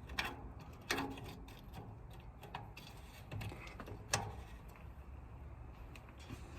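Scattered metal clicks and knocks, four louder ones among several faint ticks, as the tractor's radiator filler cap is worked back on after a first attempt did not seat properly.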